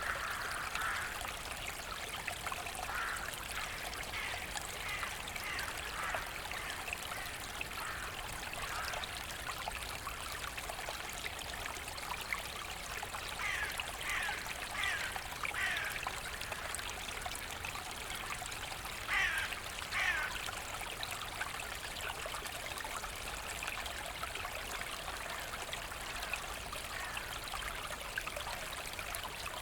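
Forest brook flowing and trickling steadily. Over it come short high sweeping chirps, a quick run of four about halfway through and two more a few seconds later.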